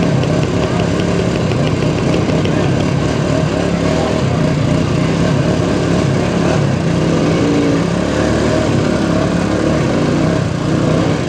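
Small vintage motorcycle engines running steadily at low speed.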